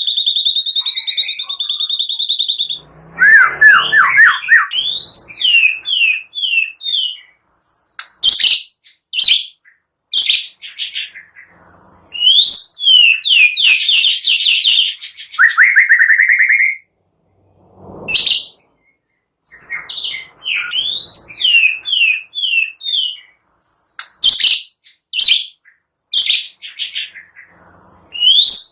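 White-rumped shama (murai batu) singing loudly: a long held high whistle at first, then fast, varied phrases of whistles, rising slurs and rapid chirp series, broken by short pauses.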